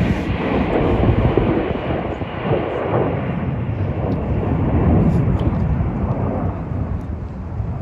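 USAF Thunderbirds F-16 fighter jet flying past, a loud, deep jet roar that swells and eases and fades near the end.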